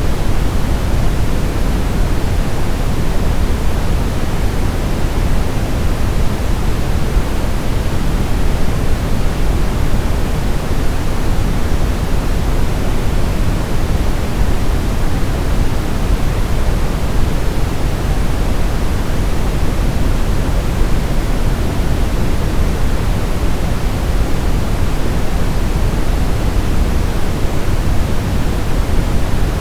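Steady synthetic noise, heavier in the bass than in the treble, like pink or brown noise, with no change over time.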